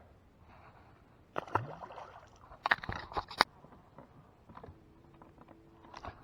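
Knocks and clatter in a small fishing boat: a knock about a second and a half in, then a quick cluster of sharp knocks around halfway through, and a faint steady hum for a moment near the end.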